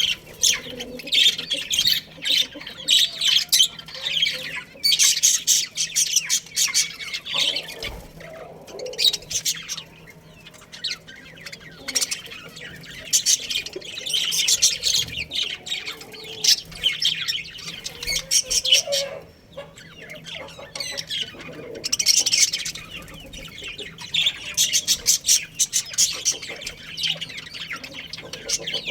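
Budgerigars chirping and chattering: dense, rapid high-pitched chirps and squawks that come in bursts of a few seconds, with short lulls between.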